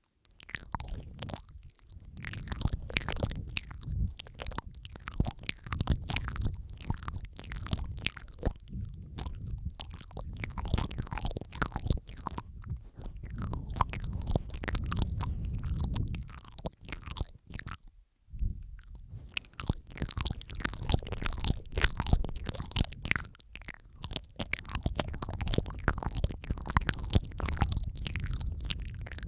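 Close-miked ASMR mouth sounds: dense, overlapping wet clicks, smacks and crackles from lips and tongue, layered over one another, with a brief pause about two-thirds of the way through.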